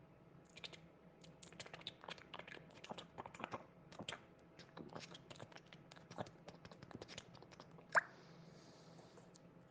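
Faint, irregular clicking and tapping, several small clicks a second, with one louder, sharper click about eight seconds in.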